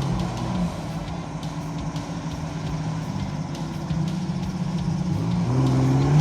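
Nissan Patrol's petrol straight-six engine running, its revs rising and falling and climbing near the end.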